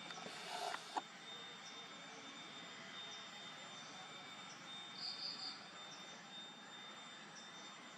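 Faint steady background hiss with a thin high steady tone. About a second in there is a short rustle ending in a sharp click, and around five seconds a quick run of three high chirps.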